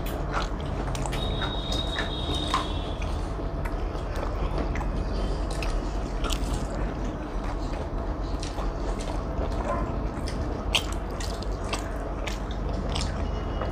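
Two people chewing and biting roti and chilli chicken, with scattered small mouth clicks, over a steady low background hum.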